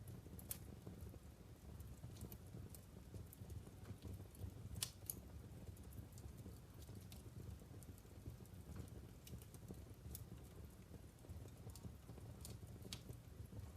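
Wood fire crackling in a fireplace: sharp pops come at irregular intervals over a low steady rumble of burning logs, with one louder pop about five seconds in.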